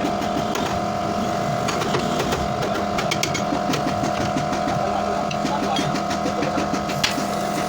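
A steady mechanical hum from a running workshop machine, with scattered light taps and clicks and one sharper knock about seven seconds in.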